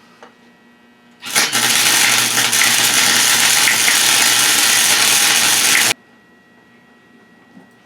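Electric arc welder laying a bead on a new steel exhaust hanger bracket: a steady, loud crackling hiss with a low hum. It starts just over a second in and cuts off abruptly about six seconds in.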